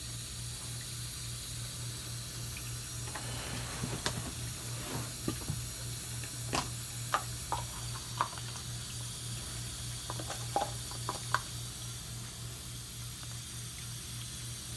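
Kitchen tap running steadily, with water hissing as it fills a portable folding washing machine's tub. A scatter of short light clicks and taps comes between about 4 and 11 seconds in, over a low steady hum.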